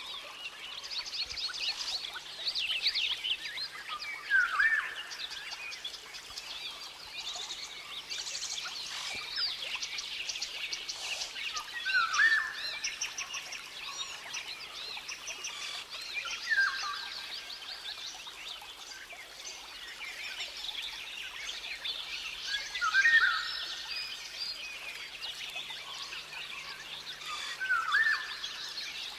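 Many birds chirping and whistling together, with one louder short call repeated about every five seconds.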